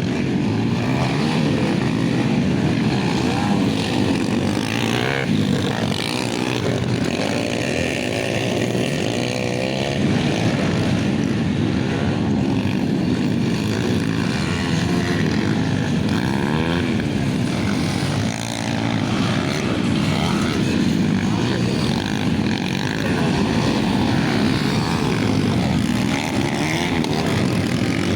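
Motocross motorcycle engines running and revving, their pitch rising and falling again and again in overlapping sweeps.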